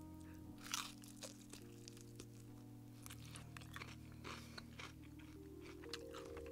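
A person chewing food with light crunches. Soft background music of held notes plays underneath and climbs in pitch near the end.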